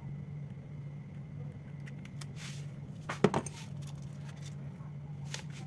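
Light clicks and one sharper clatter about three seconds in, as of small hard objects handled on a bench, over a steady low hum.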